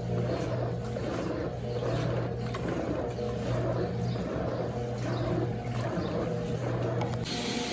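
Brastemp Eggo 1 kg mini washing machine running a rinse: a steady motor hum with water churning and splashing in the tub. About seven seconds in, a brighter hiss joins it.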